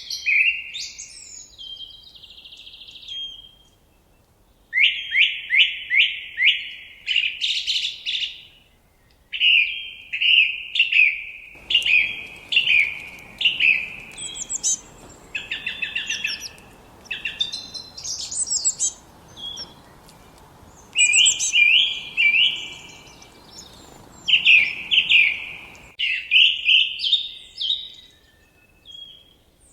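Songbirds singing short phrases of quick repeated notes, one phrase after another every second or two with brief pauses between. A faint hiss of background noise comes in partway through and stops abruptly a few seconds before the end.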